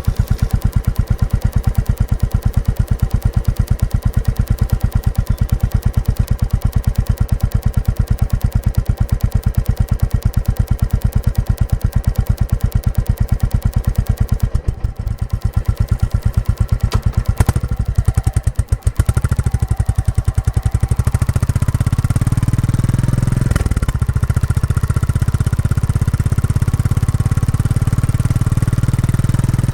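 Royal Enfield Classic 350's single-cylinder engine running through its stock exhaust while being ridden during running-in, with an even stream of exhaust thumps. Just past halfway the sound briefly drops and breaks up, then it settles into a denser, steadier low rumble.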